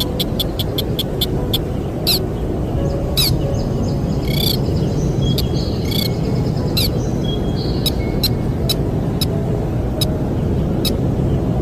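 Sintar bird giving sharp, high chirps: a fast even run ending about a second and a half in, then scattered single notes. A steady low rush of wind runs underneath.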